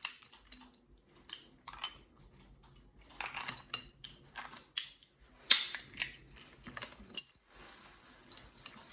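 A walnut being cracked open by hand: a series of sharp shell cracks and clicks, with a short, high ring about seven seconds in that is the loudest sound.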